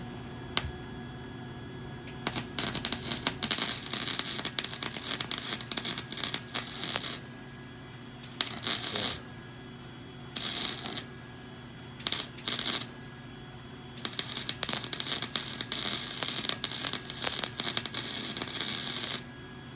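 Electric arc welder crackling in five bursts of different lengths, the longest about five seconds, over a steady low hum: short welds sealing a small hole and crack in a weld on a minibike frame.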